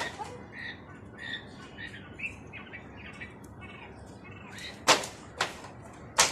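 Quail chirping in short, soft peeps, repeated every fraction of a second. Near the end come three sharp, loud clicks.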